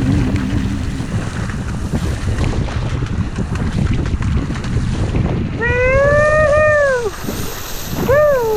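Strong wind buffeting the microphone over the wash of water around a surfski. Near the end come two high-pitched calls that rise and fall, the first about a second and a half long, the second short.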